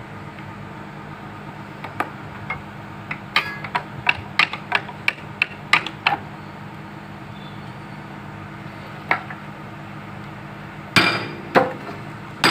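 Hammer blows on steel as a bucket pin and bushing are driven into an excavator's bucket linkage. First comes a quick run of lighter strikes, then three heavy, ringing blows near the end, over the steady hum of the excavator's engine running.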